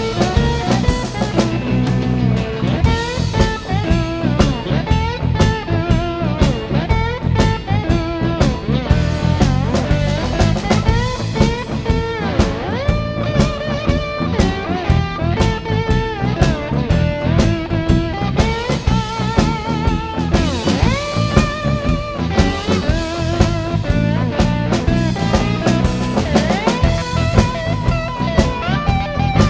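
Instrumental blues break: a guitar solo with bends and wavering, gliding notes over bass guitar and a drum kit.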